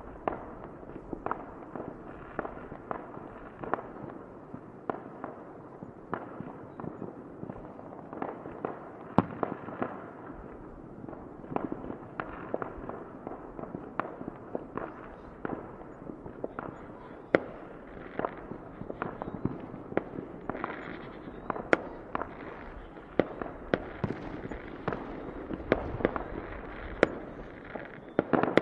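Fireworks going off: a steady run of sharp bangs and pops at irregular intervals, often several a second, over continuous background noise. The bangs come thicker and louder in the last third.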